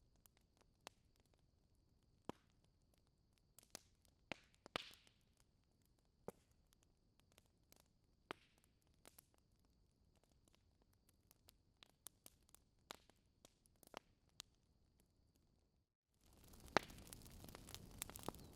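Wood fire crackling softly, with sparse, irregular sharp pops and snaps over a faint background. About three seconds before the end, the sound briefly drops out and returns as a steady hiss with a loud snap, then more crackling.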